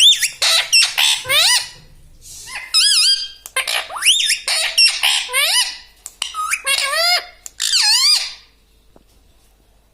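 Indian ringneck parrot calling in a quick series of high-pitched, wavering squawks, which stop about eight seconds in.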